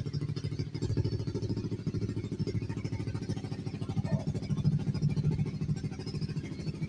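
Engine running through a loud exhaust, a rapid, steady pulsing of firing strokes held at a fairly even level.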